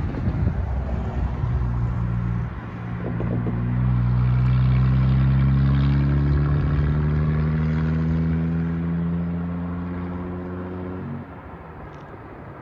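A road vehicle's engine accelerating. Its hum rises slowly in pitch and is loudest about five seconds in, then cuts off abruptly near the end.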